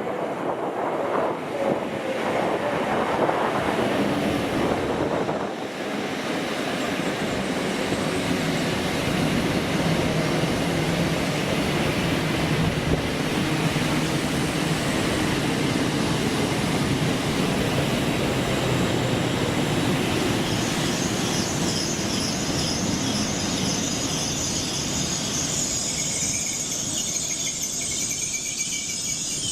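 A train running along the line through a station, a steady heavy rumble and rattle. About two-thirds of the way through, a high-pitched metallic squeal sets in.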